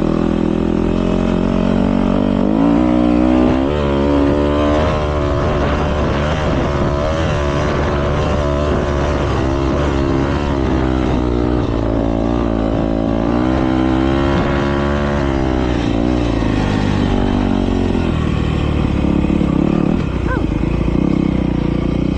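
Several motocross bikes racing, their engines revving up and down as they accelerate and shift. The overlapping engine notes rise and fall most busily through the middle and settle into a steadier drone near the end.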